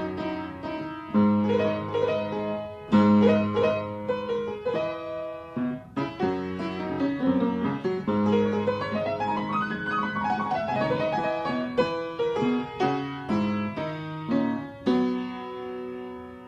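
Solo piano playing chords and a rising and falling run of notes, with a last chord left to ring out near the end.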